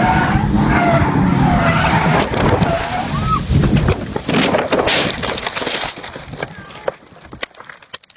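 E46 BMW M3's inline-six running while its tyres squeal in a skid, then a burst of heavy crashing and scraping about four seconds in as the car flips over, dying away into scattered clattering and quiet.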